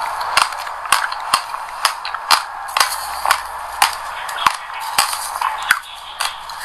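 Close-miked chewing of a mouthful of passion fruit pulp and sesame seeds: sharp crunching clicks about twice a second, over a steady wet hiss.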